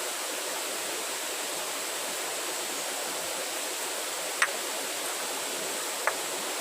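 Wood campfire burning with a steady rushing hiss, and two sharp pops about a second and a half apart in the second half.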